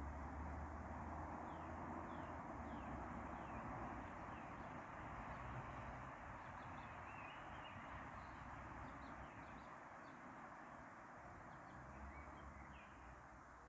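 Outdoor bird ambience: many short, high chirps from small birds, scattered throughout, over a steady background rush with a low hum.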